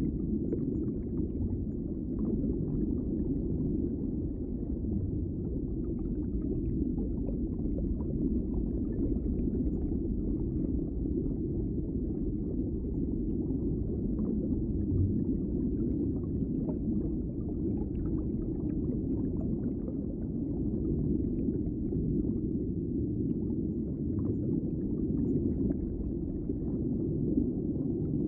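Underwater ambience: a steady, muffled low rumble of water with faint scattered crackles and pops.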